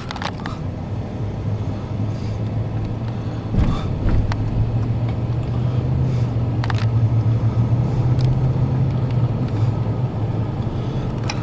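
Steady low engine hum, with a few sharp clicks or knocks about three and a half and six and a half seconds in.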